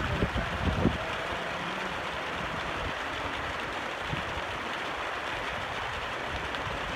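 Heavy rain falling in a steady rush, with strong wind buffeting the microphone for about the first second before it settles.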